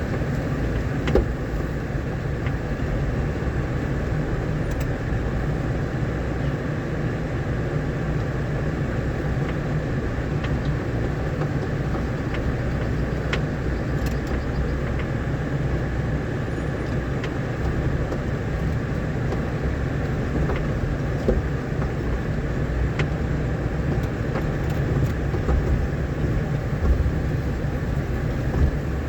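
A vehicle driving on a rough dirt road, its low steady rumble of engine and road noise broken by scattered knocks and rattles from the bumps.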